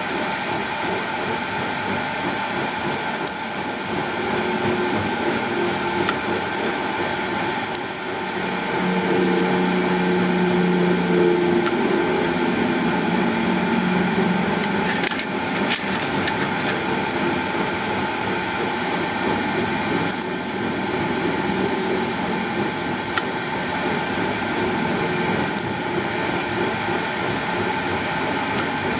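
Welding arc crackling as bolts are tack-welded into a steel bracket, in several bursts of a few seconds each over a steady background hum.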